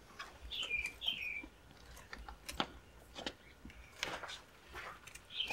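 A small bird chirping: two short chirps, each falling in pitch, about half a second and a second in. Scattered soft clicks follow from the hands and forceps working on the hatchlings.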